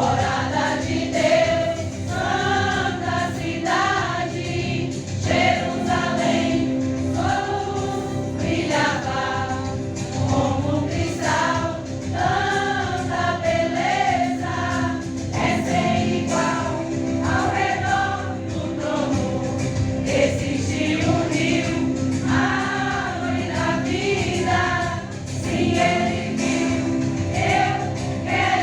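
A church choir singing a hymn, with steady held notes from an instrument underneath.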